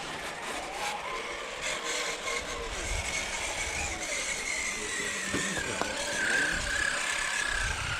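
Radio-controlled scale crawler truck's electric motor and gearbox whining as it drives, the whine drifting slowly down in pitch. Scattered sharp clicks come in the first couple of seconds.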